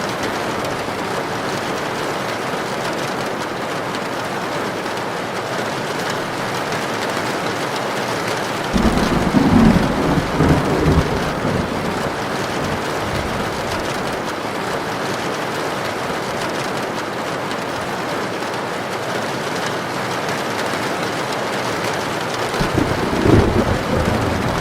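Heavy rain falling steadily, with two low rumbles of thunder: one starting about nine seconds in and lasting a few seconds, another near the end.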